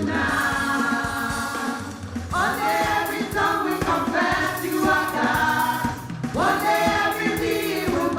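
Church praise-and-worship singing: a group of voices sings a gospel song over instrumental backing, the voices swelling into new phrases twice.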